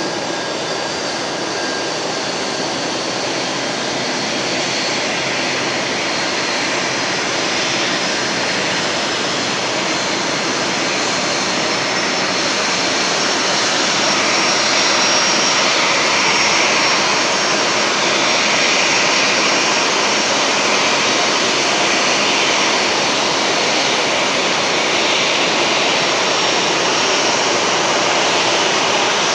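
Jet aircraft engine running steadily on the ground: a loud, constant rush with a faint high whine, getting a little louder about halfway through.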